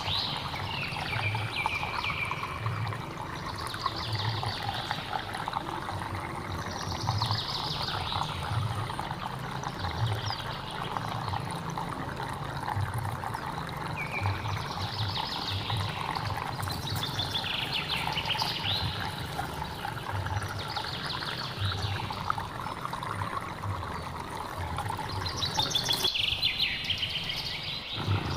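Hill stream flowing steadily, with a bird calling over it again and again, a short trilling phrase every two to three seconds.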